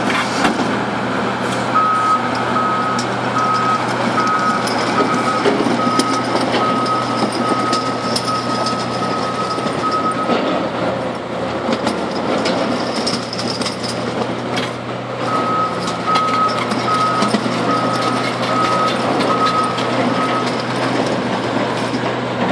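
Heavy quarry machine's diesel engine running under load while its reversing alarm beeps about one and a half times a second. The alarm sounds in two runs: from about two seconds in to about ten seconds, then again from about fifteen to twenty seconds, meaning the machine is backing up.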